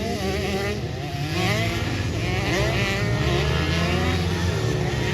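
Several pit bike engines racing, their pitch rising and falling repeatedly as the riders work the throttle.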